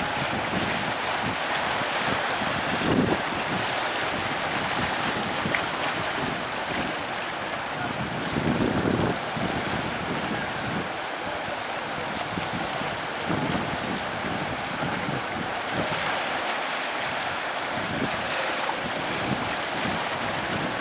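Surf washing onto a sandy beach, a steady wash of waves, with wind buffeting the microphone in gusts.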